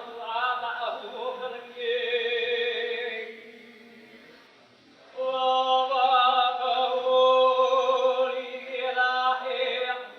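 A voice chanting in long, held notes, dropping away about three and a half seconds in and starting again just after five seconds.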